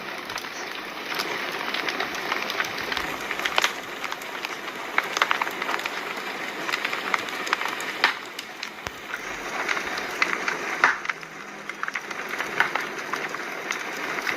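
Wood fire crackling: a steady hiss broken by frequent irregular pops and snaps.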